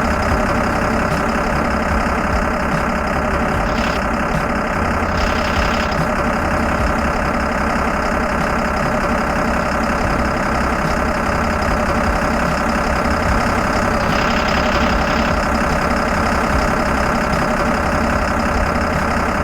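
Car carrier truck's engine idling steadily at an even pitch.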